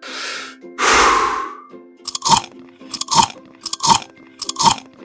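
Cartoon sound effects of cookies being munched: two swishing sounds, then four crisp crunching chomps less than a second apart, over soft background music.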